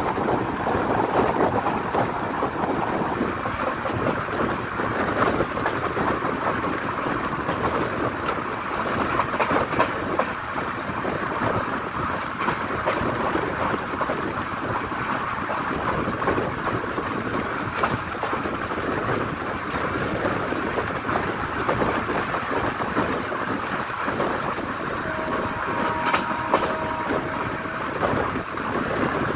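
Indian Railways passenger coach running at speed: a steady rumble and rush of wheels on the rails and wind past the open doorway, with light irregular clicks from the wheels. Near the end a faint steady two-note tone sounds for about three seconds.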